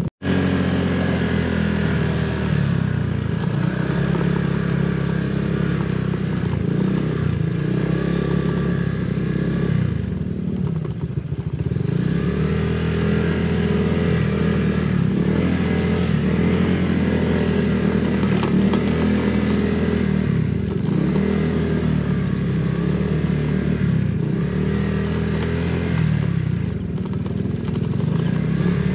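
Honda PCX 160 scooter's single-cylinder engine running on the move, its pitch dipping and climbing again several times as the throttle is eased and opened.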